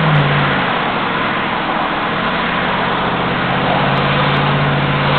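GMC 2500HD dump truck's V8 engine running under way, with a steady rush of road and wind noise heard from inside the cab. The engine hum grows louder about three and a half seconds in.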